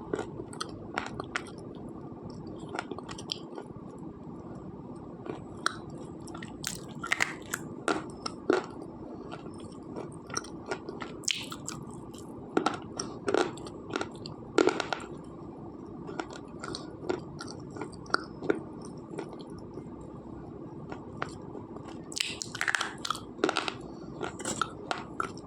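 Slate pencil being bitten and chewed close to the microphone: a long run of sharp, irregular crunches and cracks, busiest near the end.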